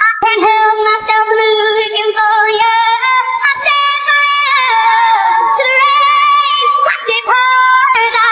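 A woman's solo sung vocal with no backing music, sped up so it sounds higher-pitched than natural: long held notes with vibrato, sliding from pitch to pitch, broken briefly at the start and again about seven seconds in.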